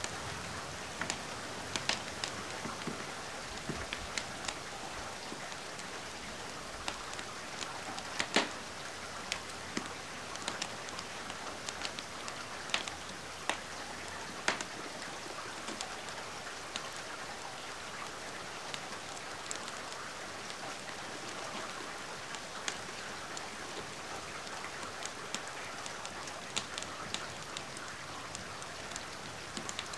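Steady rain hiss mixed with irregular sharp crackles and pops of a wood fire burning in a fireplace.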